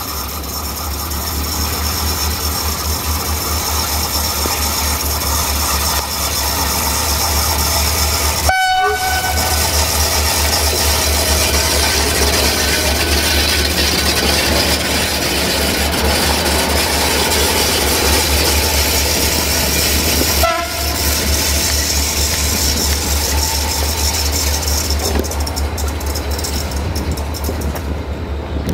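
A train running close by through the station: a steady low locomotive rumble with wheel and wagon noise. Two brief pitched tones come through about nine and about twenty seconds in.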